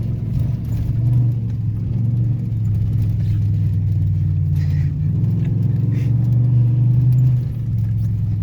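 Pickup truck engine running steadily under load while driving over rough off-road ground in four-wheel drive, with scattered short clicks and rattles over the bumps.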